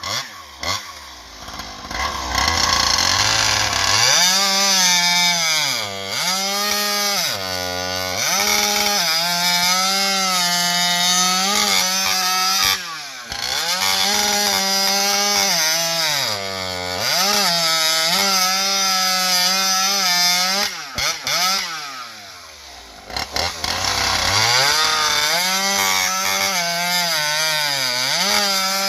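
Ported and piped Stihl MS661 two-stroke chainsaw running at full throttle through spruce. Its high, steady engine pitch sags and recovers several times. About three quarters of the way through it drops to idle, then revs back up to full speed.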